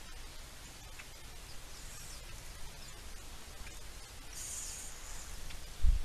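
Small birds chirping and calling at a feeder, short high-pitched calls over a steady outdoor background, with a livelier burst of calls in the second half. A single dull thump comes just before the end.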